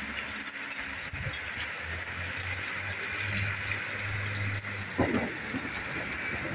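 Rain falling, a steady even hiss. A low hum joins for a couple of seconds in the middle, and there is a dull knock about five seconds in.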